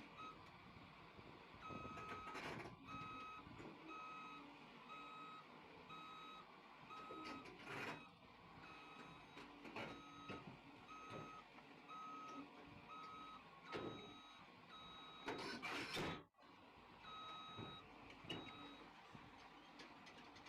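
Faint reversing alarm on heavy machinery, a steady string of short, evenly spaced beeps, with a few brief louder rushes of machine noise in between.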